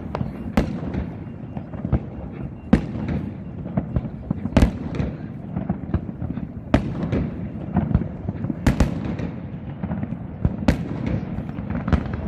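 Aerial fireworks bursting overhead: a sharp bang every second or two over a steady background rumble of lesser bursts and crackle.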